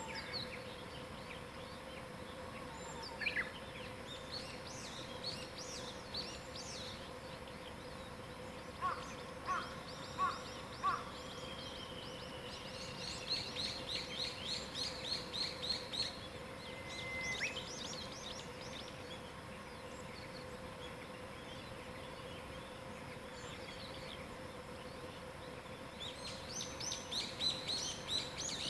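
Several wild birds singing in a mountain woodland: varied chirping phrases, a quick run of repeated notes around the middle and again near the end, and a few lower notes about nine seconds in. A steady faint hum runs underneath.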